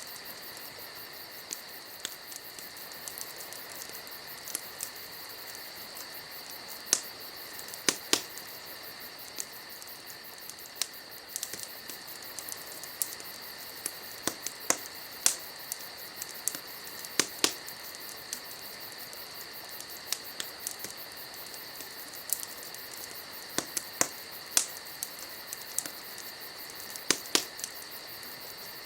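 Wood fire crackling, with sharp pops at irregular intervals, over a steady high chirring of night insects.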